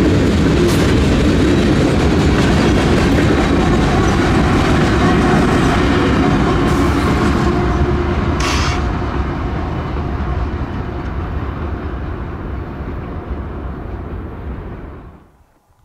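Union Pacific freight train rolling past, its cars clattering over the rails, with a brief sharp screech about halfway through. The sound then fades as the train draws away and cuts off suddenly near the end.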